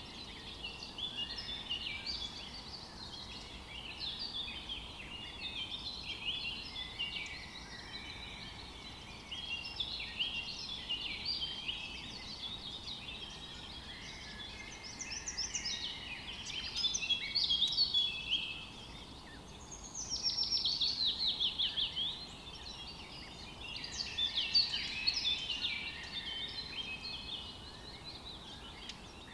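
Songbirds singing in a busy chorus of chirps, warbles and trills, with a fast trill that falls in pitch about twenty seconds in.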